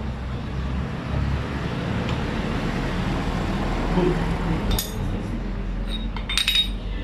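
Steady low rumble of background noise with sharp metallic clinks, one about five seconds in and a quick cluster near the end.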